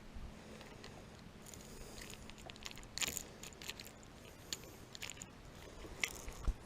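Faint, scattered light metallic clinks and rattles of fishing tackle being handled.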